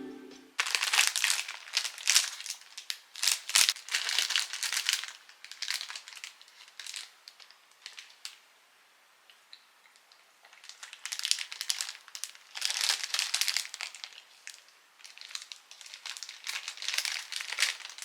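Crinkly wrapping being handled and crumpled in several bursts of a few seconds each, with short quiet pauses between.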